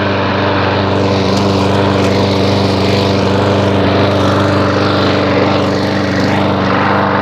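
4.5-horsepower Briggs & Stratton mower engine running steadily at an even speed, on its first run of the season after priming.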